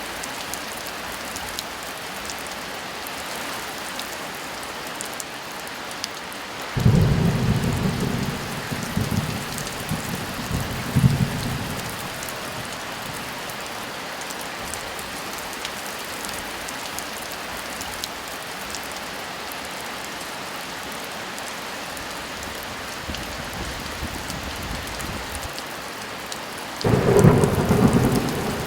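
Steady heavy rain falling, with thunder twice: a clap breaks suddenly about a quarter of the way in and rumbles on for about five seconds, and another breaks near the end.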